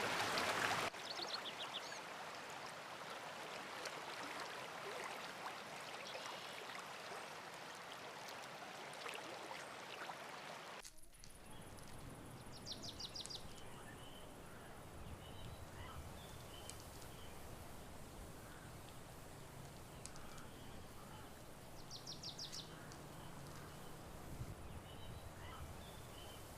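Running water, a steady rush, for about the first eleven seconds. It then cuts to quieter countryside ambience with birds chirping, including two short rapid trills.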